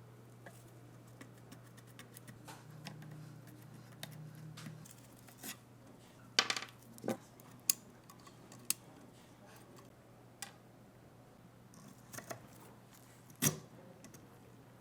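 Small metal gun parts and hand tools clicking and clinking as they are handled, in scattered light taps with sharper clinks about six to eight seconds in and again near the end, over a faint steady hum.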